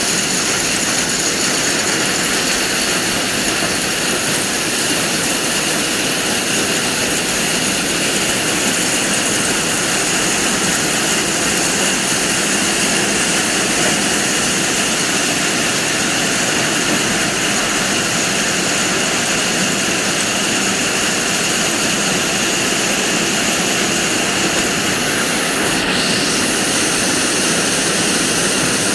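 Hailstorm: hail coming down in a steady, dense roar.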